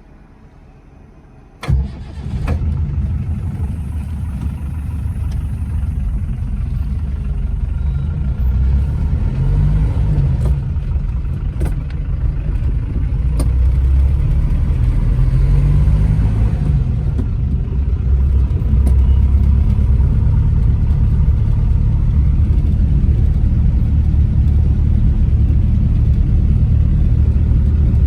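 Hindustan Ambassador's Stride diesel engine cranking and starting about two seconds in, then idling with a steady low rumble. Its pitch rises and falls briefly twice in blips of the throttle, around ten and sixteen seconds in.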